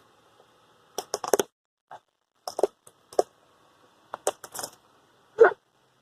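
An object cracking and snapping as a car tyre rolls over and crushes it: a string of sharp cracks coming in clusters, the loudest near the end.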